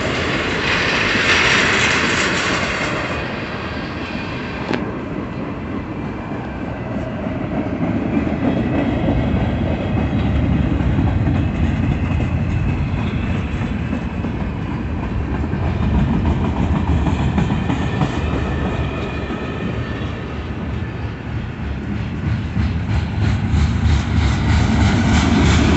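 Union Pacific freight train's cars rolling slowly past at close range: a steady low rumble of steel wheels on rail, with a rhythmic clickety-clack of wheels over rail joints that grows louder near the end.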